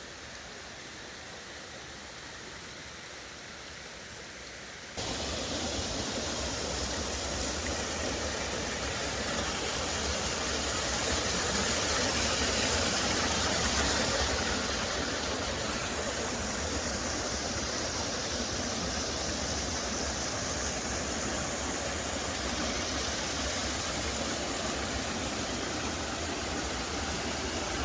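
Mountain stream rushing over rocks: a steady rush of water that jumps louder about five seconds in and swells a little for a few seconds before settling.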